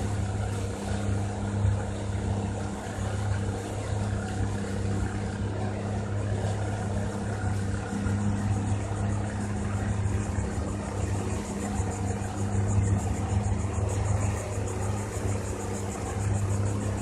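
Motorboat engine running steadily, a constant low hum that holds at one pitch.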